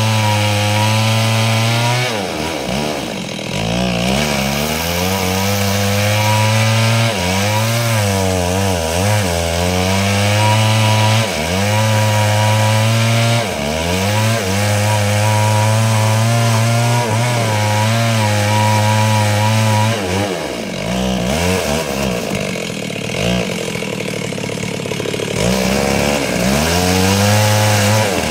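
Stihl two-stroke chainsaw at high revs ripping a log lengthwise into planks. Its engine note sags under load and picks up again several times as the chain bites into the wood.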